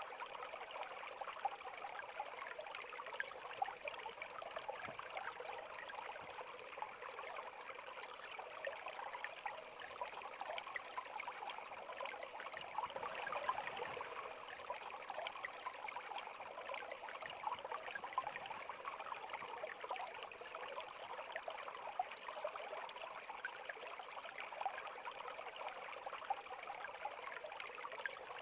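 A river flowing steadily, with a constant rush of water and many small splashes and trickles over it.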